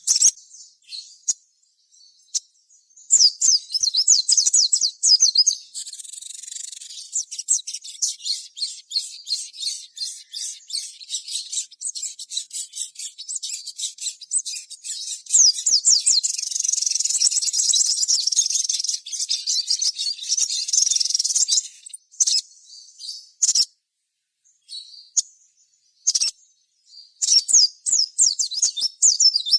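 Crimson sunbird (sogon, sogok ontong) singing a rapid, high-pitched twittering song: long continuous runs in the first two-thirds, then shorter bursts with brief pauses near the end.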